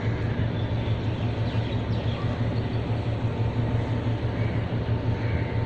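Steady low drone of a vessel's engine over a constant noisy rumble.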